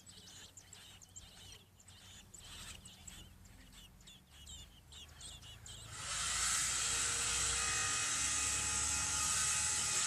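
Nestling American robins peeping faintly in quick high chirps. About six seconds in, a much louder steady high noise with a low rumble begins abruptly.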